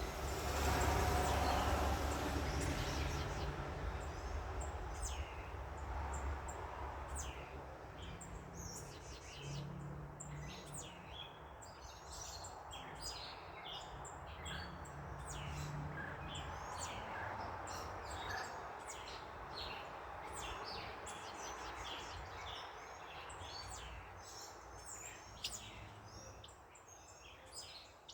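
Backyard birds chirping with many short, quick calls. A passing car's rush fades away over the first few seconds, leaving a faint low rumble of traffic underneath.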